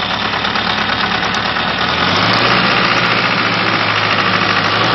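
Isuzu 4HL1 four-cylinder diesel engine running on test with a diesel clatter. About two seconds in it picks up speed and gets louder.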